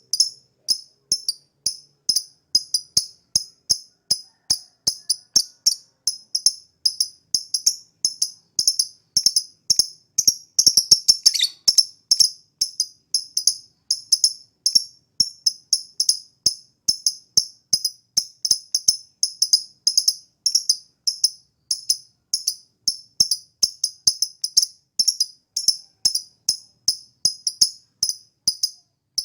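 Lovebird singing a long, unbroken chattering song: a fast, rhythmic run of sharp, high-pitched chirps, several a second, growing denser and louder for a moment about eleven seconds in.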